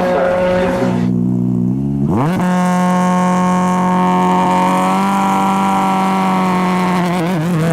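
Ford Fiesta RS WRC's turbocharged 1.6-litre four-cylinder engine held at a lower steady note, then revved up sharply about two seconds in and held at a constant high pitch for several seconds, wavering near the end.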